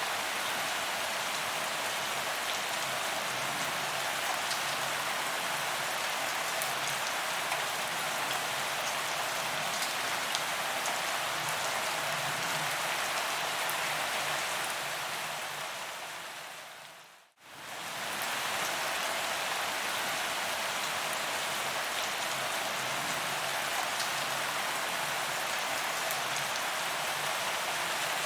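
Steady rain falling on a paved promenade: an even hiss with scattered drop ticks. About two-thirds of the way through, it fades out to silence for a moment and fades back in, like a loop point in the recording.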